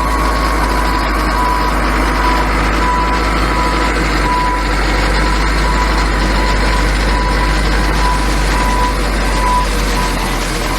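Loader's back-up alarm beeping steadily, about one beep every three-quarters of a second, over its engine running under load.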